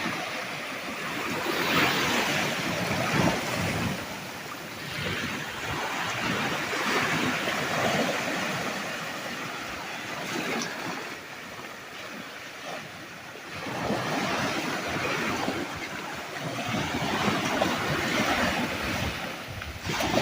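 Sea waves breaking and washing on the beach, the surf swelling and easing every few seconds.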